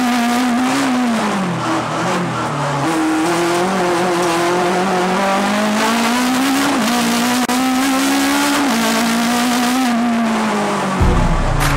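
Fiat Ritmo 105's four-cylinder engine pulling at high revs, heard from inside the cabin. The revs dip about a second in and climb again, then hold high with small changes. Near the end a sudden deep rumble comes in over it.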